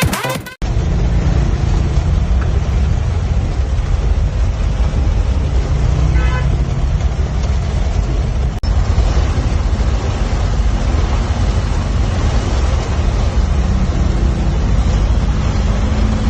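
Road traffic noise with a heavy, steady low rumble, and a short horn toot about six seconds in.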